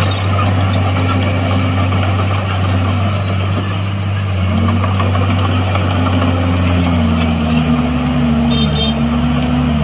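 Bulldozer's diesel engine running with a steady low drone, its pitch dipping a few seconds in and then wavering up and down as the engine works.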